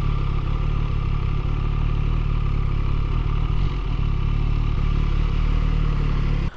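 MV Agusta Brutale 675's three-cylinder engine running steadily at low revs, with no rise or fall in pitch.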